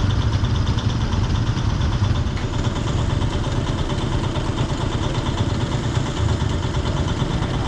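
Road vehicle engines, motorcycles among them, idling steadily in a waiting queue at a closed railway level crossing.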